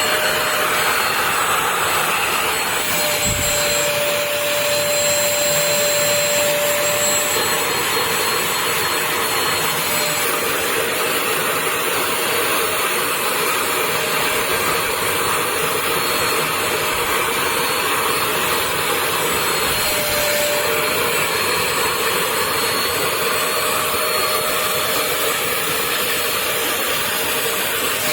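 Portable upholstery spot cleaner (HAUSHOF StainZapper, a 400 W wet vacuum) running steadily, its motor giving a loud rushing hum with a thin high whine over it.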